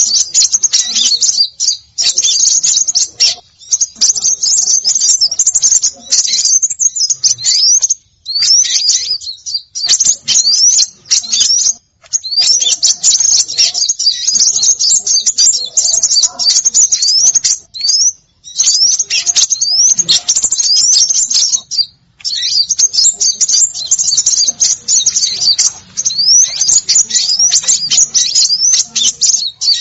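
Small songbirds chirping and twittering in a busy, high-pitched chatter of quick notes and short rising whistles, played as a bird-lure call. The chatter comes in runs broken by a few brief pauses.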